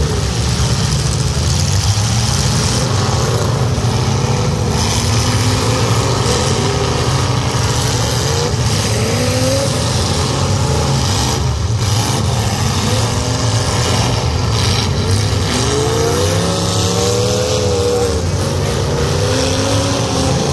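Several demolition derby cars' engines running together in a continuous low rumble, revving up and down as the drivers accelerate and push. One engine revs hard near the end.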